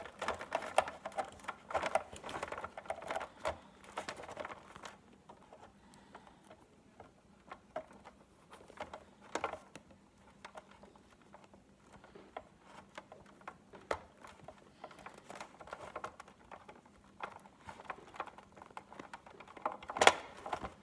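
Small plastic gear and gearbox parts of a Big Mouth Billy Bass being handled and worked into place: irregular light clicks and scraping, with one sharp click near the end.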